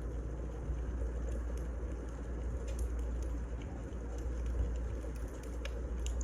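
Wood fire burning: a steady low rumble with occasional sharp crackles and pops.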